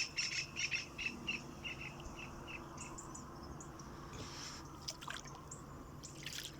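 A bird calling: a run of about a dozen short high notes that slows and fades over a couple of seconds, followed by a few fainter chirps.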